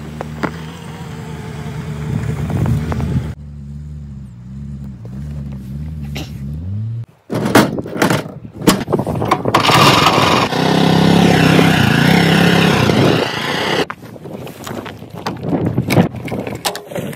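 Chevrolet Niva's engine running as the car drives over a snow-packed road, its pitch sliding in the second half. After a cut about seven seconds in, loud clattering and repeated knocks follow.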